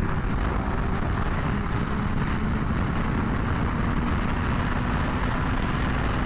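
2020 BMW S1000RR inline-four engine, with Akrapovič headers and mid-pipe, running at a steady level while being ridden, mixed with heavy wind rush on the helmet-mounted microphone.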